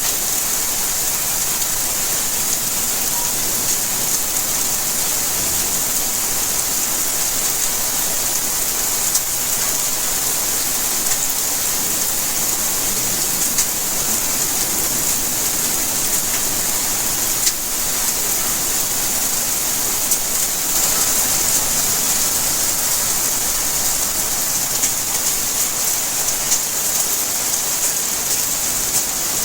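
Steady rainfall: a dense, even hiss of rain on surfaces, with a few sharper drop ticks standing out here and there.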